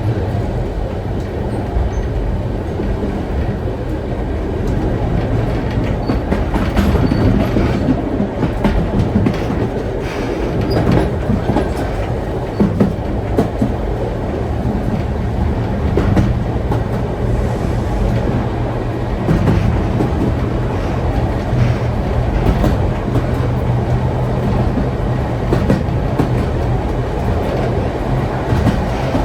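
Heritage steam train's carriages running along the rails: a steady low rumble with scattered clicks and rattles from the wheels and coachwork.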